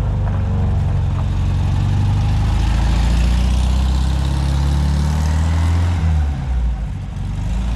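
Car engine running close by with a deep, steady low note, its pitch rising slightly in the middle and changing as it eases off about six seconds in.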